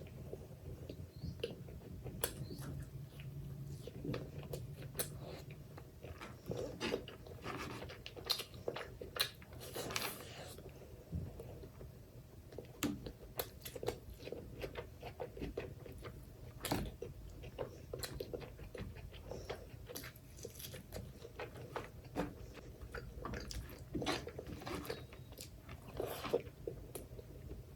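Close-up eating sounds: a person chewing mouthfuls of mutton curry, rice and raw onion, with wet smacking and crunchy bites in an irregular run of short clicks.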